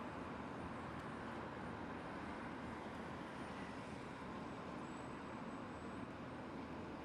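Steady hum of distant city traffic, with no distinct events standing out.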